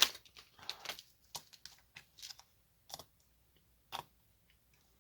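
A diamond painting drill pen tapping resin drills onto the sticky canvas: light, irregular clicks and taps, about one a second, with a brief rustle near the first second.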